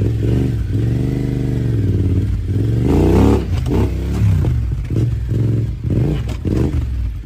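Motorcycle engine revving up and down over and over, the pitch rising and falling every second or so, then cutting off suddenly at the end.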